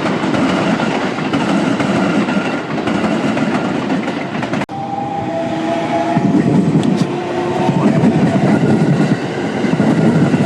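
Trains running through a station, a steady loud rumble of wheels on rails. It breaks off abruptly a little under halfway, then resumes with a steady tone of several pitches sounding over it for about three seconds.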